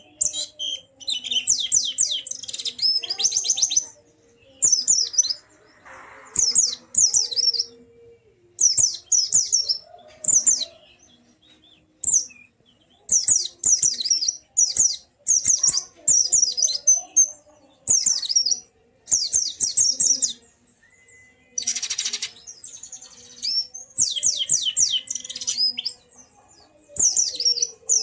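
Pleci (white-eye) singing in fast, high, chattering phrases of about a second each, separated by short pauses. A harsher rasping burst comes about two-thirds of the way through. This is the lively 'ngalas' style of song used to prompt other pleci to open their beaks and sing.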